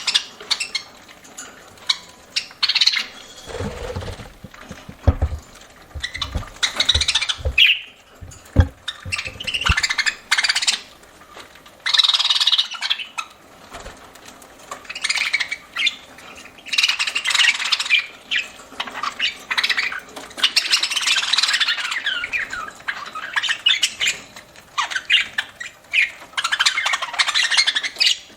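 Pet budgerigars (parakeets) chattering and chirping in repeated bursts of quick, squawky calls. A run of short low knocks in the first third.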